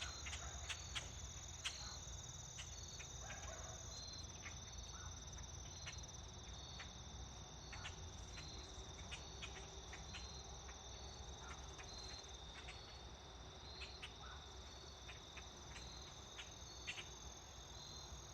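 Faint chorus of crickets: a steady high trill with a regular pulse, and scattered soft clicks.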